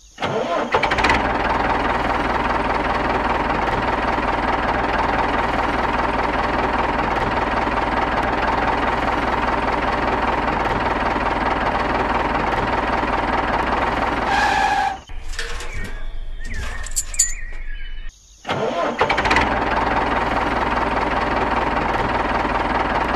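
Tractor engine running steadily. It breaks off about two-thirds of the way through for a few seconds of light clicking and rattling, then runs again to the end.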